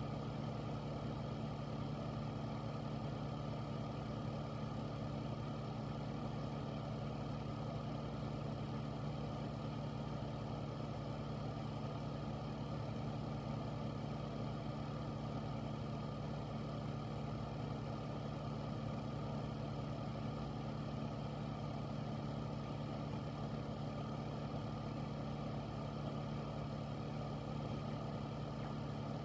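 Air filter fan running steadily: a constant low hum over an even rush of air.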